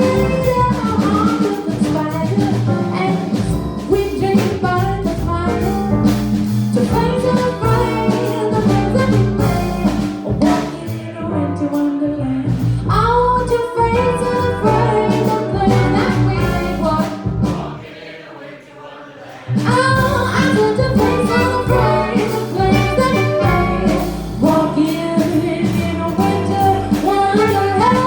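A live jazz combo of alto saxophone, trumpet, piano, double bass and drums playing at full band with a woman singing. About two thirds of the way through the band drops almost out for a couple of seconds, then comes back in full.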